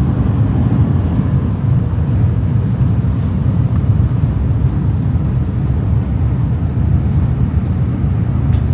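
Steady low rumble and hiss of a Shinkansen bullet train running at speed, heard from inside the passenger car.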